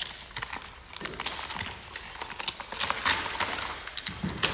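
Irregular light clicks and knocks, a few a second, over a faint low hum.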